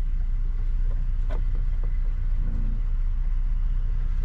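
Steady low rumble with a few light knocks, the clearest about a second in.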